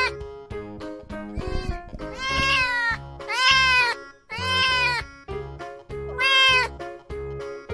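Kitten meowing four times, each call high-pitched and falling at its end, over background music with a steady beat.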